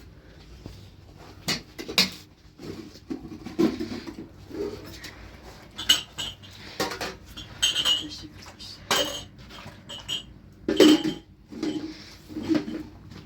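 Dishes and metal utensils clinking and knocking irregularly, a dozen or so light strikes, some with a short bright ring.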